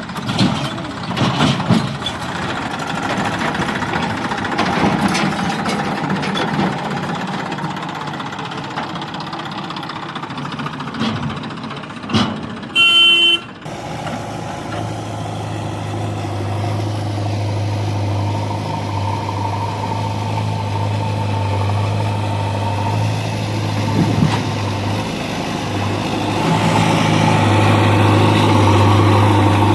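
Heavy vehicle engine running, with knocks and clatter over the engine noise at first, a short loud pitched tone about 13 seconds in, then a steady low engine drone.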